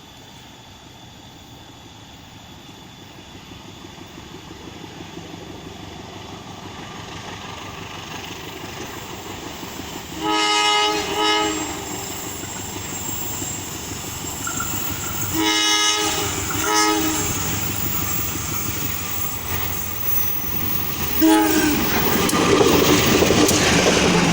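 A KAI diesel-locomotive-hauled passenger train approaching, its rumble growing steadily louder. The locomotive's horn sounds in short paired blasts about ten and fifteen seconds in, and once more briefly near twenty-one seconds, before the train reaches the spot and passes with its wheels clattering over the rail joints.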